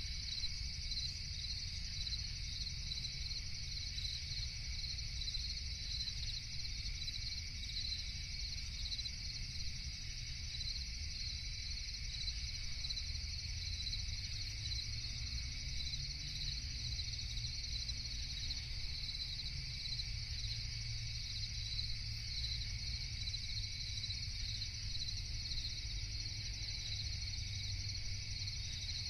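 Crickets chirping in a continuous, steady night chorus, over a low steady rumble.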